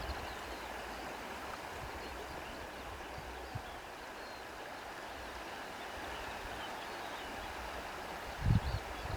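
Steady rushing of flowing water, with a few faint high chirps and a brief low thump near the end.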